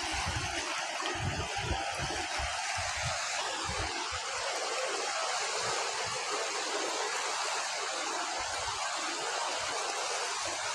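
Fast-flowing mountain river rushing in a steady, even roar, with intermittent short low rumbles underneath.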